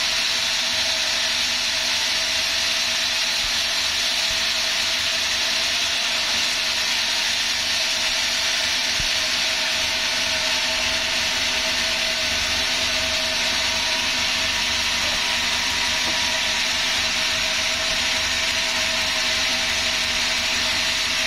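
Sawmill saw running steadily through the whole stretch: a continuous hiss over a constant hum, with no break or change in level.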